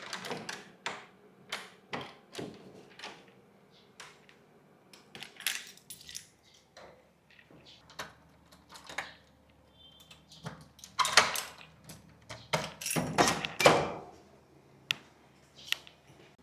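A string of small clicks and knocks from objects being handled, with louder clusters about eleven and thirteen seconds in.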